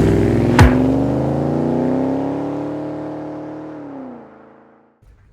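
Car engine revving: a steady pitched engine note that climbs slightly, then falls and fades away about four seconds in, with a sharp click about half a second in.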